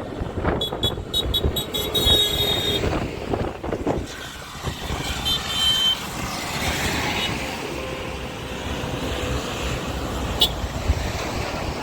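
Tractors driving past on the road, engines rumbling steadily, with runs of short high-pitched beeps in the first three seconds and again around five seconds in.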